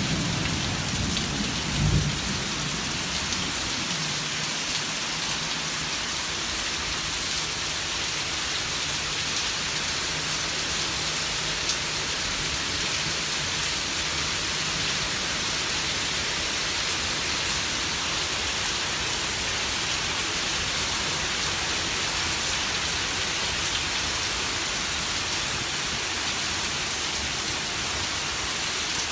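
Heavy rain falling steadily in a thunderstorm, an even hiss. A low rumble of thunder with a thump dies away in the first couple of seconds.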